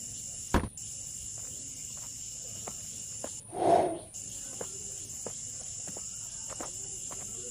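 Steady high-pitched insect chorus, cricket-like, that drops out briefly twice, with scattered faint ticks and a short louder sound about three and a half seconds in.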